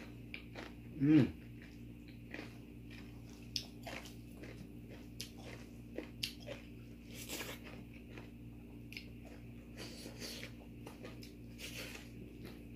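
Close-up eating sounds: a person chewing and crunching food, with short wet clicks and crackles throughout. About a second in there is a brief, louder vocal sound that falls in pitch.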